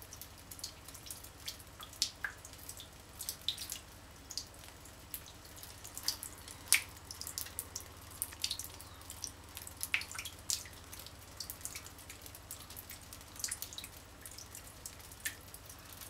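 Water dripping in irregular drops, a few a second, some louder and closer than others, over a faint low hum.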